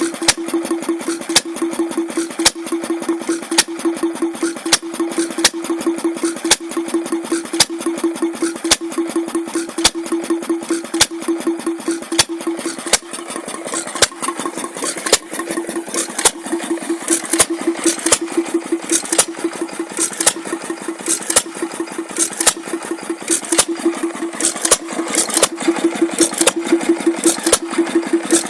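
Model Taylor vacuum engine (a flame-licker) running steadily: a constant pulsing hum with regular sharp clicks.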